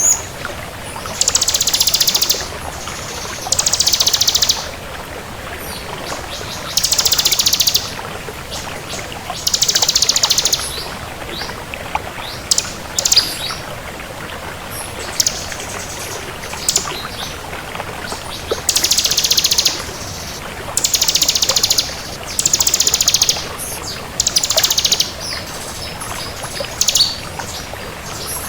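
Bar-winged prinia (ciblek) in full song: dense, buzzy, high-pitched trills about a second long, repeated every two to three seconds, with short sharp chirps between them, over a steady background hiss.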